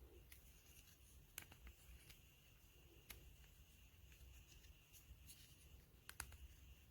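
Near silence: low room tone with a handful of faint, sharp clicks at irregular intervals.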